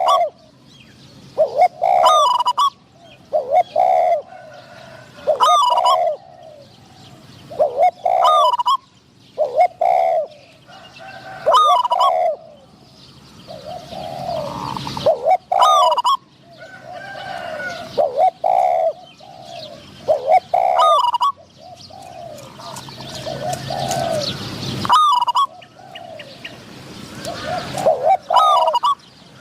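Spotted doves cooing, a string of repeated coo calls about every two seconds, some loud and some fainter, as a caged decoy dove and a wild dove call back and forth.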